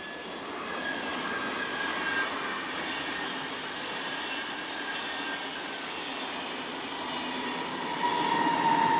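A train passing on the line, its running noise carrying steady high-pitched whining tones. A louder whine comes in near the end.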